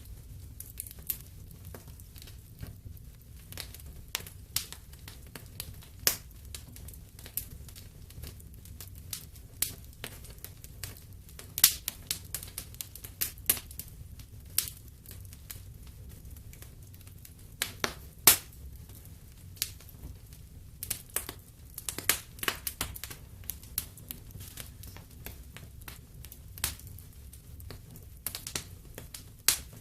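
Fireplace fire crackling, with irregular sharp pops and snaps, several a second and unevenly spaced, some much louder than others, over a low steady rumble.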